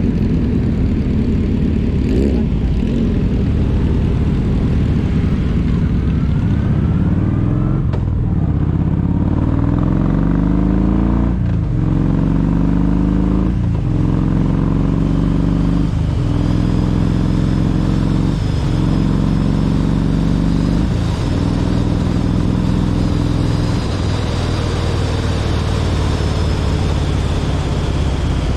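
Kawasaki Vulcan 1700 Voyager's V-twin engine under way, its pitch climbing and then dropping sharply at each of about six gear changes as the motorcycle accelerates, then running at a steadier pace near the end.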